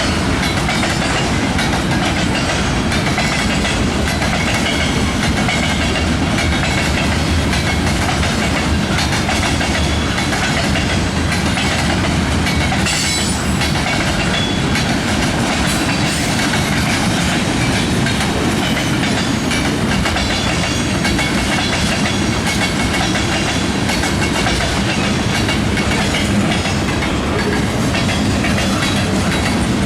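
Freight cars of a manifest train rolling past at steady speed: a loud, constant noise of steel wheels running on the rails.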